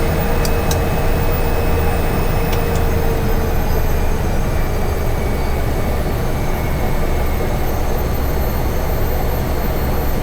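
Cessna 208 Caravan's turboprop engine running at low taxi power, a steady drone heard from the cockpit, with a steady whine that fades out about four seconds in.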